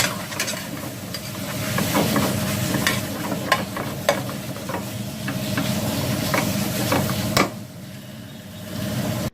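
Spices sizzling in a frying pan while a spoon stirs them, the spoon clinking and scraping against the pan at irregular moments over a steady low hum. The sizzle dies down after a loud clink about seven seconds in.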